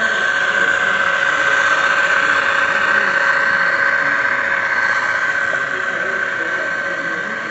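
A model train running on the layout, with a steady high whine and hiss that swells a little and eases off near the end.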